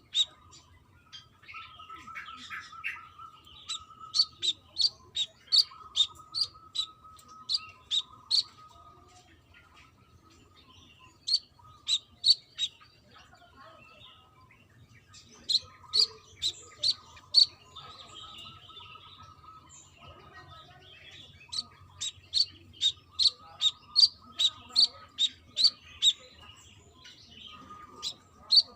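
Brown-throated sunbird singing in full song: runs of sharp, high chip notes at about three a second, each run lasting a few seconds with short pauses between, over a softer, lower twittering.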